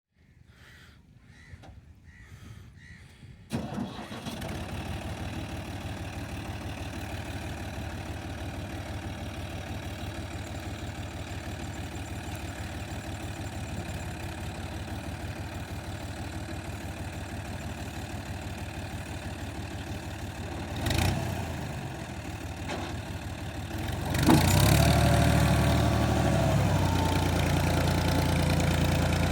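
A New Holland Fiat tractor's diesel engine starts suddenly about three and a half seconds in, then runs steadily. About 24 seconds in it gets clearly louder and stays up, the engine revving under load.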